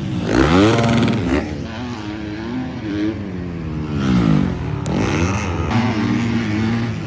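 Motocross bikes racing on track, several engines revving hard with pitch rising and falling repeatedly as riders accelerate, shift and back off.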